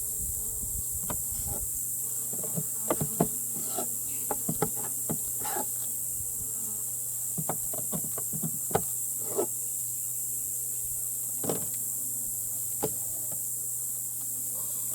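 Honeybee colony buzzing steadily in an open hive, with scattered small clicks and knocks throughout.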